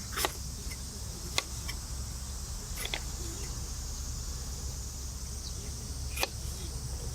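Wood campfire crackling: four sharp, separate pops over a steady high hiss.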